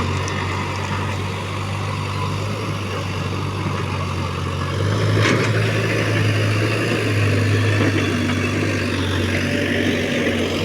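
JCB 3DX backhoe loader's diesel engine running steadily, getting louder about halfway through as it works harder, with a brief knock near the middle.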